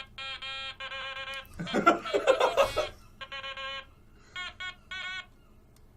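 Electronic beeping toy sounding a rapid series of short beeps at different pitches, picking out a tune note by note. A burst of laughter comes about two seconds in.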